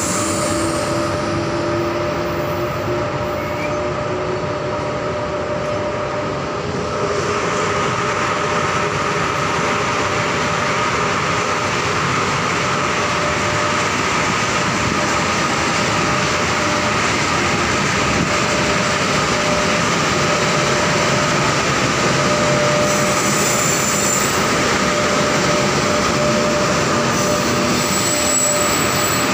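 Passenger trains hauled by electric locomotives pulling slowly out past the platform: a steady rolling rumble of wheels on rail, with a thin steady squeal over it.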